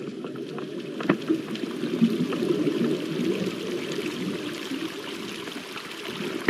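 Water rushing and sloshing steadily, with a sharp knock about a second in.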